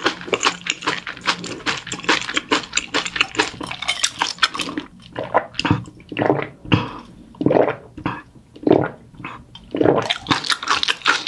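Close-miked wet chewing and mouth clicks from a person eating. From about five seconds in they give way to a slower run of separate lip smacks and swallows, roughly one a second, and quick clicky chewing returns near the end.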